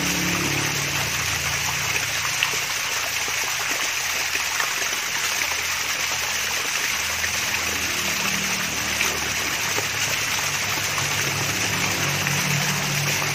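A mini waterfall: water trickling and splashing steadily, with a low gurgle underneath.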